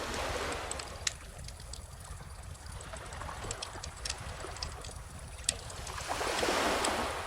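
Wood fire crackling with scattered sharp pops, over gentle ocean waves washing in; a wave swells loudest near the end, and two louder pops come about a second in and past the middle.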